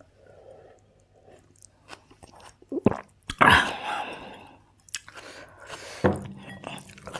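A person chewing and biting food in a mukbang, with moist crunching and a few sharp clicks; the loudest crunch comes about three and a half seconds in.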